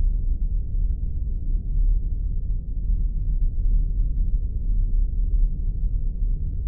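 Spaceship engine sound effect: a steady deep rumble that does not change, with most of its weight in the very low bass.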